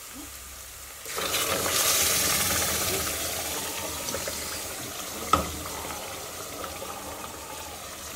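Food sizzling in hot oil: a loud sizzle starts suddenly about a second in and slowly dies down, with a single light knock about five seconds in.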